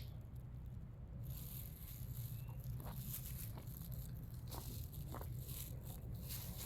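Faint footsteps crunching on a gravel (caliche) trail, irregular crisp clicks starting about a second in, over a low steady rumble.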